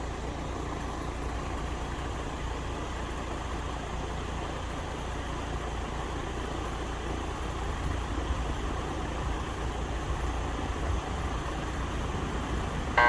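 A steady low rumble, then near the end a loud, steady buzz from a Gibson heat pump's compressor as it tries to start and does not run. This is the sign of a failing start winding in the compressor.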